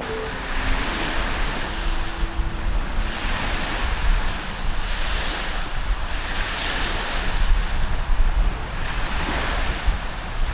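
Wind buffeting the microphone with a deep rumble, over a rushing noise that swells and fades every two seconds or so.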